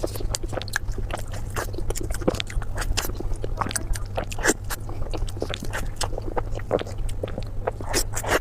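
Close-miked chewing and biting of a black sesame roll: quick, irregular mouth smacks and clicks, several a second, over a steady low hum.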